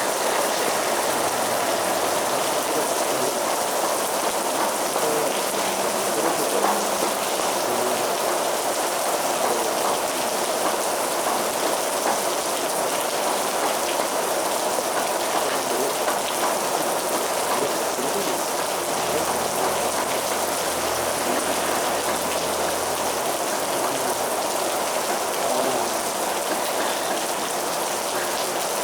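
Heavy rain falling steadily, a dense even hiss with drops pattering on a surface.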